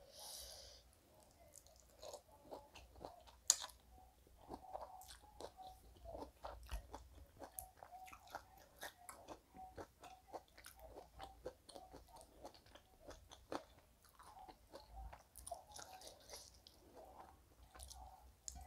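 Faint close-up chewing of bony duck meat and rice, a steady run of small mouth clicks and smacks, a few a second, picked up by a clip-on microphone.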